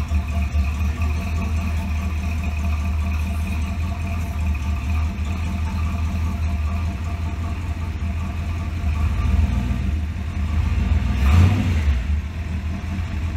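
Carbureted V8 engine idling steadily, with one brief surge in revs about eleven seconds in, while its ignition timing is being set at the distributor.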